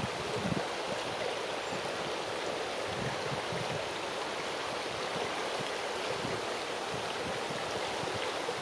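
Strong wind rushing through the leaves of a large tree, a steady rustling hiss, with uneven low buffeting of wind on the microphone.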